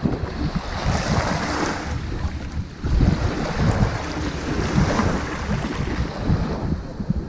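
Ocean waves washing onto a sandy beach: a hiss of surf that swells about a second in and again from about three seconds in, then eases. Under it runs an uneven low rumble of wind buffeting the microphone.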